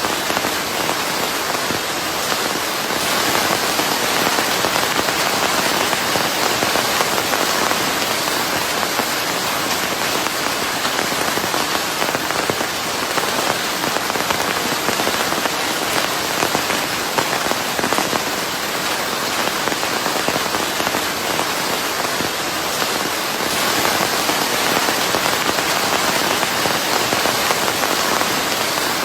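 Steady rain falling, a dense, even hiss of many drops. It swells a little louder a few seconds in and again near the end.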